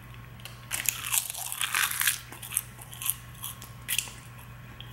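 A person biting into and chewing a crisp, thin roasted seaweed snack sheet close to the mouth. There is a quick run of dry crunches about a second in, then a few separate crunches spaced out until near the end.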